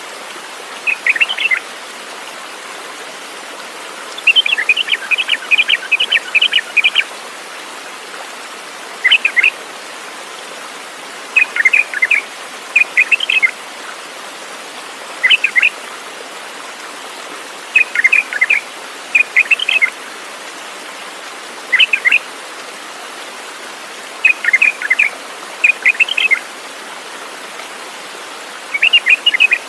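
A bird calling in short clusters of quick, high chirps, repeated every two to three seconds over a steady background hiss.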